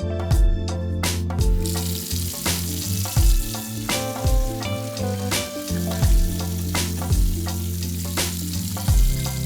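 Food sizzling in a hot frying pan, starting about a second and a half in and dying away near the end, over background music with a steady drum beat.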